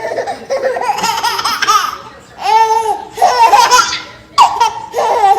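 A small child laughing hard in high-pitched fits, with a drawn-out squeal about halfway through.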